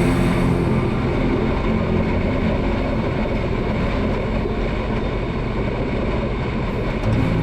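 Motorcycle travelling at highway speed: a steady rush of wind and road noise.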